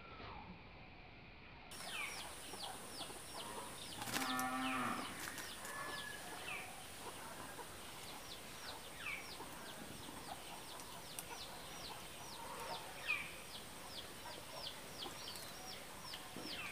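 Small birds chirping over and over, each chirp a short high note falling in pitch, with a cow lowing once about four seconds in, the loudest sound.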